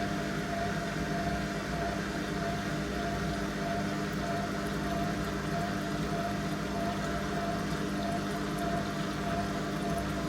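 Candy Aquamatic 100F compact washing machine in its final spin at up to 800 rpm: a steady motor hum with a higher tone that swells and fades in a slow, even pulse.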